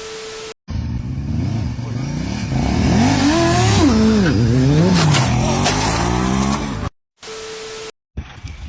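A vehicle engine revving, its pitch rising and falling several times. A short steady beep sounds at the start and again near the end.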